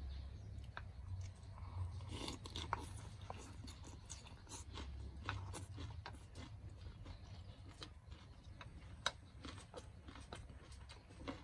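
A person biting and chewing crunchy food close to the microphone, with many irregular short crunches and clicks.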